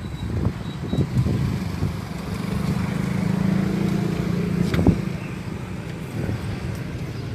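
An engine humming steadily, swelling for a few seconds in the middle and then easing off, with one sharp click about five seconds in.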